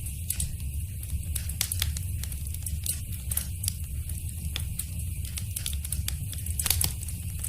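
Wood fire in a fireplace crackling, with irregular sharp pops and snaps over a low steady rumble. One pop near the end stands out as the loudest.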